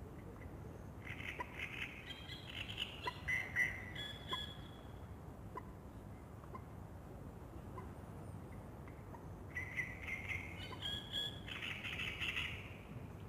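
A songbird singing twice, each time a varied warbling phrase of about three seconds. Faint short ticks come about once a second, over a steady low background hum.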